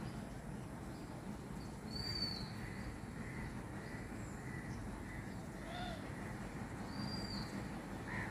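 Outdoor ambience with wild birds calling: a clear, high arched call twice, about two and seven seconds in, and a run of short chirps between about two and five seconds, over a steady low background rumble.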